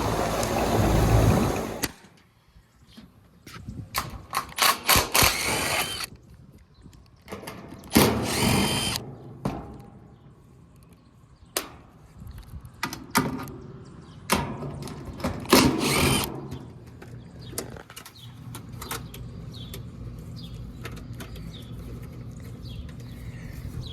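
Cordless power drill run in several short bursts, with clicks and knocks of tools and metal parts between them. Wind blows on the microphone for the first couple of seconds.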